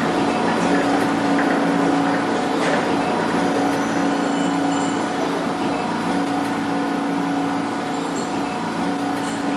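Toy subway train running on its track: a steady, even whine from its small motor over a constant rattle of wheels.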